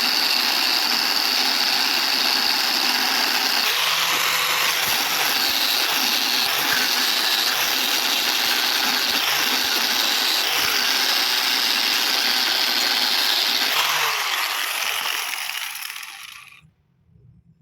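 Stick (arc) welding arc crackling and sizzling steadily as a bead is laid on square tubing. It fades out over the last few seconds.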